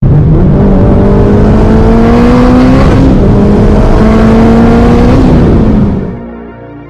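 Turbocharged Honda Civic Si's four-cylinder engine accelerating hard, very loud, its pitch climbing through one gear. It drops briefly at a shift about three seconds in, climbs again through the next gear, then fades out near the end.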